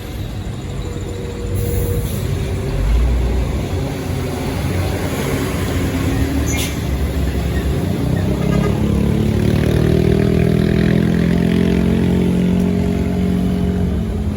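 Heavy truck's diesel engine working hard uphill. It grows louder and rises slightly in pitch from about halfway through, over a steady rumble of traffic.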